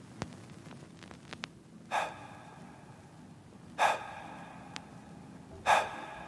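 Three sharp gasping breaths, evenly spaced about two seconds apart, over a faint low backing: a breathing effect in a song's intro.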